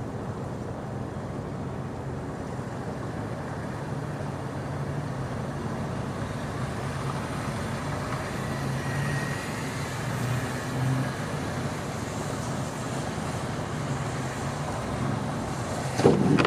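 Motor vehicle traffic running steadily: a low engine hum under road noise, with a sudden knock near the end.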